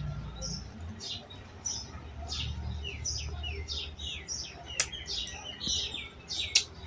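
Small birds chirping over and over, short chirps falling in pitch several times a second, over a low steady hum.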